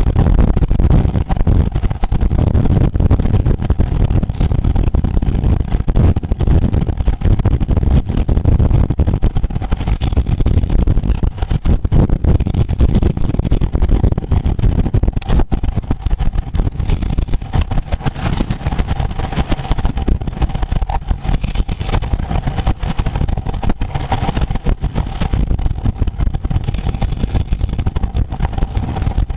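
Loud, steady wind rumble on the microphone of a camera moving at racing speed with a road bicycle race, with a faint steady hum in the middle register.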